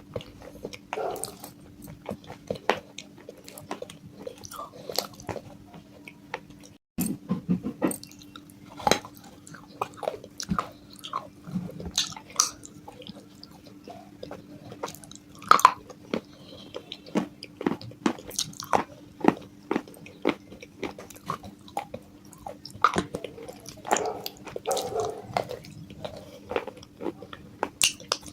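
A person biting and chewing pieces of broken baked clay pot, with many sharp, irregular crunches and crackles, over a faint steady hum.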